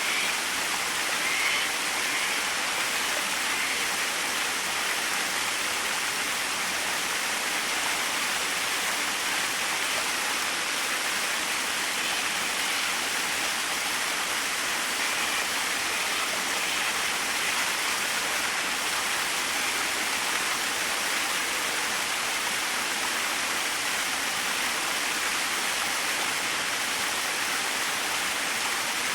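A small waterfall splashing steadily, an even rushing hiss of falling water with no change in level.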